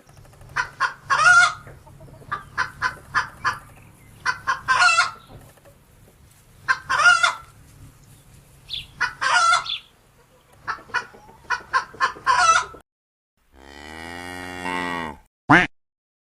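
Chickens clucking and cackling: about five runs of quick clucks, each ending in a longer squawk. Near the end a cow moos once, a low call of about two seconds.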